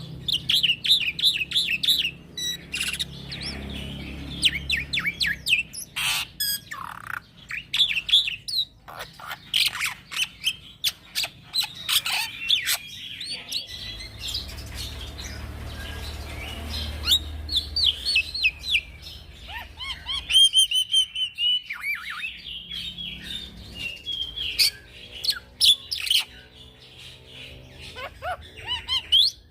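A young black-winged myna singing in a long, varied run of chirps, whistles and harsh notes, with sharp clicks between phrases. This is the bird in full, continuous song.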